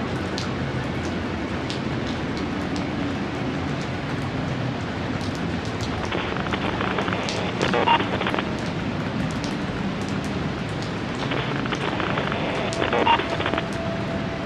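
Steady rain: a dense hiss of rainfall with scattered sharp drip ticks. Twice, about six and eleven seconds in, comes a louder stretch of a couple of seconds that ends in a sharp peak.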